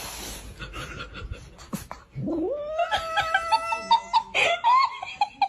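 A cat yowling: after some faint knocks, a long call rises sharply about two seconds in and is held steady, then breaks into a run of short, choppy yowls.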